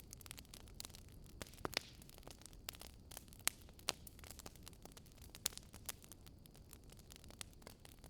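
Fire crackling: irregular sharp pops and snaps, a few louder than the rest, over a low steady rush of flames.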